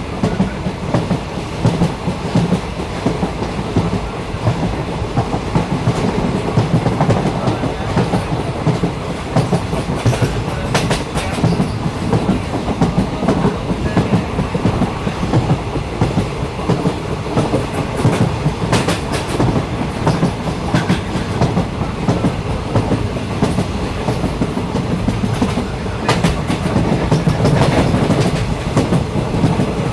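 Train in motion on the rails: a steady rumble with occasional clicks of the wheels over rail joints.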